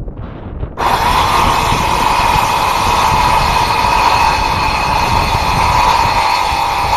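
Ridgid circular saw starting abruptly about a second in, then running steadily and loud with a high, even whine.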